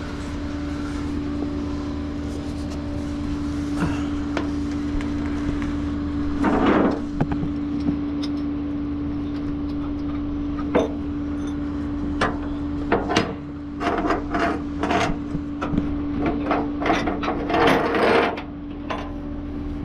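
Tow hookup gear being unhooked from a car: repeated metal clanks and rattles, coming thick and fast in the second half, over a steady hum from the idling tow truck.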